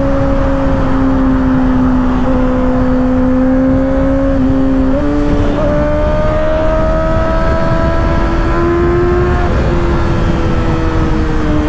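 2024 Kawasaki ZX-6R's inline-four engine running at high revs through an M4 aftermarket exhaust with its baffle still in, while riding. The engine note steps up about five seconds in, climbs slightly, then drops away near the end.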